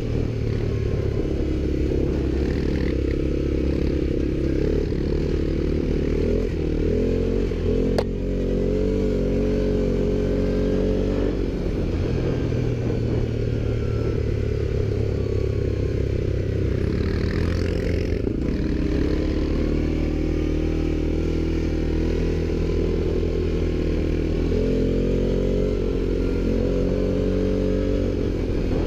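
ATV engine running under way, its pitch stepping up and down with the throttle several times.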